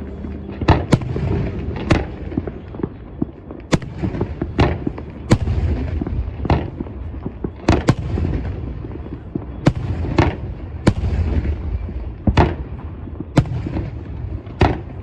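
New Year's fireworks: a steady run of sharp bangs, about one or two a second, from aerial shells bursting over a continuous low rumble and crackle of many more distant fireworks.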